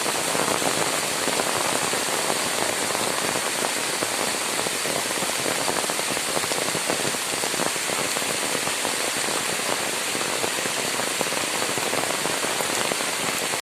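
Steady heavy rain falling, a dense hiss with fine crackling of drops striking surfaces.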